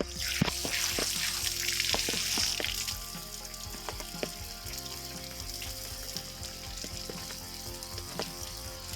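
Water running and splashing as hands are washed, for about the first three seconds; after that a steady quieter hiss with scattered light ticks.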